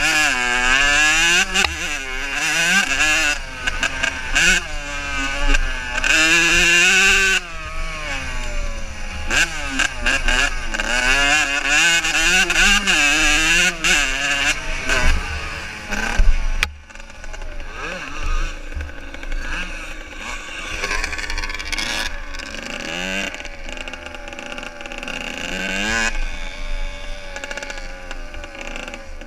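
Motocross motorcycle engines revving up and down as the bikes race, their pitch rising and falling over and over with several engines overlapping. A little past halfway the sound drops off sharply and then goes on quieter.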